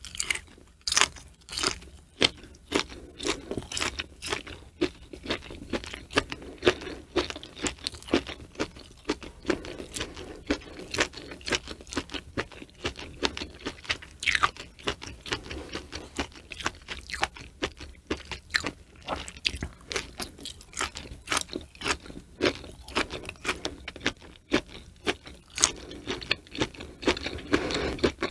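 Close-miked chewing of cow udder slices dipped in salt: a steady run of short crisp crunching clicks, several a second, with no pause.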